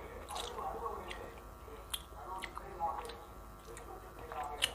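Close-up mouth sounds of someone chewing a soft chocolate ball with a blueberry filling, with a few wet smacking clicks.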